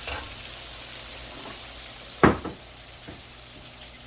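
Onion, garlic and herbs frying in butter in a pan, a soft steady sizzle; a little over two seconds in, a single sharp knock.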